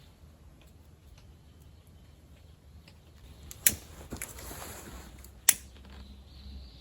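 Camp gear being handled during hammock and tarp setup: light rustling with a few faint ticks, and two sharp clicks a little under two seconds apart in the second half.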